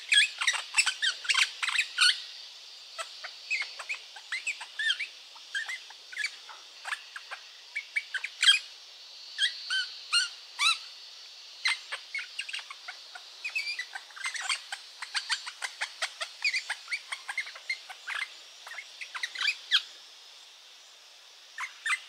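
Birds chirping: a long, busy run of short, quick calls and little pitch-sliding chirps, several a second, over a faint steady hiss.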